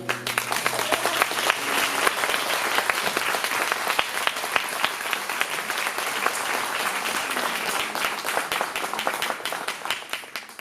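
Theatre audience applauding at the end of a pansori performance, steady clapping that fades near the end.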